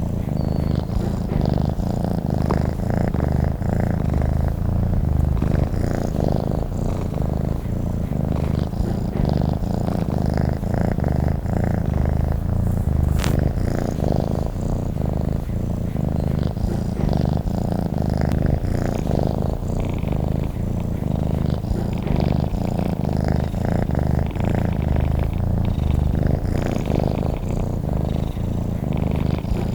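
Domestic cat purring steadily and continuously, with a single brief click about halfway through.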